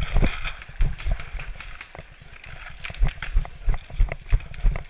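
Running footsteps of the player carrying the camera, heavy thumps about two to three a second, with gear and clothing jostling and clicking.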